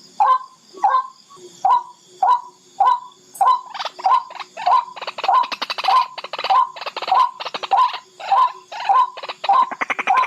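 Barred rail calling: a loud, harsh note repeated about every half second, which after a few seconds runs into a faster, rattling series of calls.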